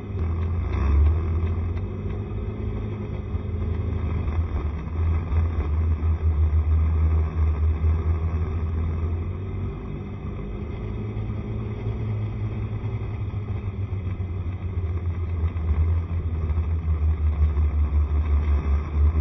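Honda SCR110 scooter's small single-cylinder four-stroke engine running on the move, under a strong low rumble that pulses unevenly.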